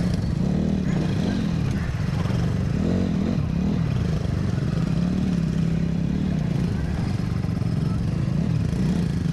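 Motorcycle running on the road under a steady low rumble, its engine pitch rising and falling with the throttle.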